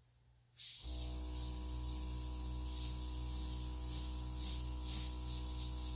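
Small airbrush compressor switching on about half a second in and running with a steady electric hum, while compressed air hisses out of the airbrush to blow alcohol ink across the paper.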